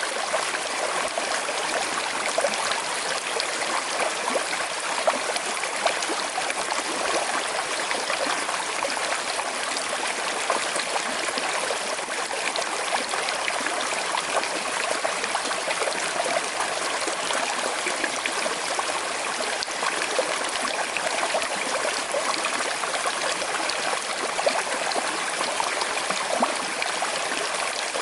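Small river with a slight current flowing steadily, a continuous rush of water with fine trickling and gurgling.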